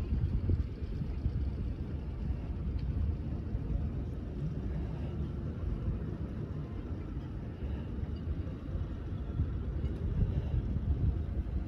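Steady low rumble aboard a boat, with wind buffeting the microphone.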